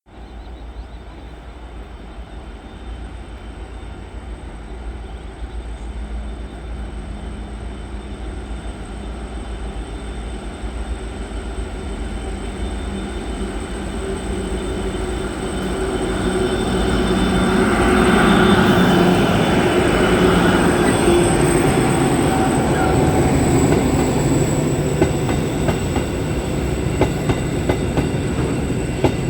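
A diesel-hauled cement freight train approaching and passing: the locomotive's engine grows steadily louder for about eighteen seconds until it passes, then the wagons roll by with wheels clicking over the rail joints near the end.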